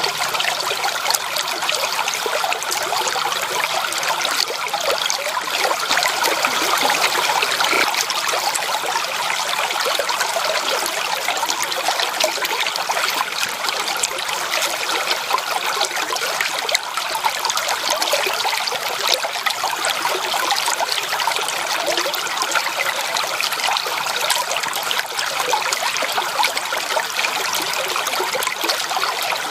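Water running in a stream, a steady rush with fine splashing and little deep rumble.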